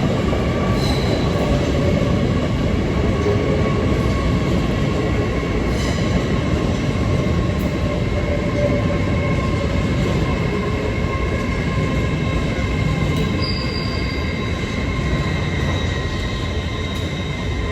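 A train running through the station: a loud, steady rumble with several held high-pitched squealing tones over it, easing slightly toward the end.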